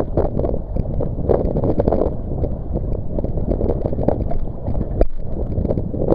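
Strong wind buffeting the microphone over choppy sea water around a kayak, loud and gusty. The sound briefly cuts out about five seconds in.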